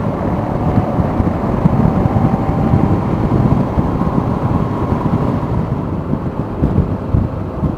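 Motorcycle at road speed: steady wind buffeting on the microphone over the engine's low running drone.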